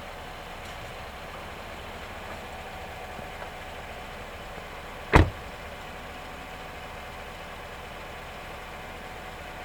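Chevrolet Silverado pickup idling with a steady hum. One loud thump comes about five seconds in.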